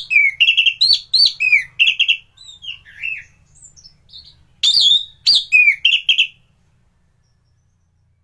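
Orange-headed thrush (anis merah) singing in two loud bursts of quick, varied whistled and warbling notes, with softer notes between them, falling silent after about six and a half seconds.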